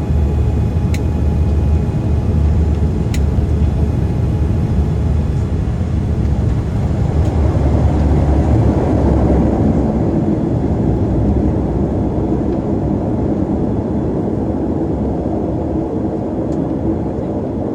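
Saab 340's twin General Electric CT7 turboprop engines and propellers running with a steady low drone, swelling slightly about halfway through. Two light clicks come about one and three seconds in.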